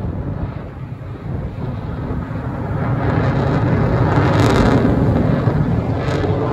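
Aircraft flying past at an air show, a rumbling engine noise that builds to a peak about two-thirds of the way through and then eases slightly.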